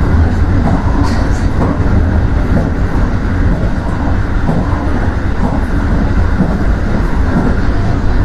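An Aonami Line electric train running at speed, heard from inside the cab: a steady low rumble of wheels on rails with faint, irregular clicks.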